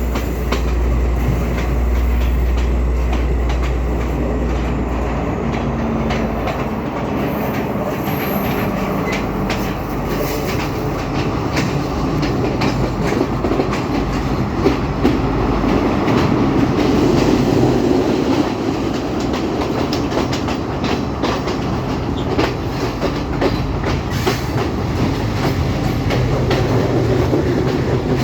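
Passenger train running along the track: a steady rumble with the clickety-clack of the wheels over rail joints. A low drone underneath fades out about six seconds in.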